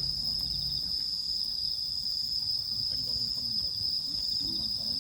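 Insect chorus, a continuous high trill at one steady pitch.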